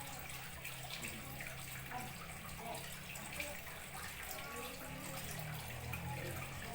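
Steady trickle of running water with a low hum underneath.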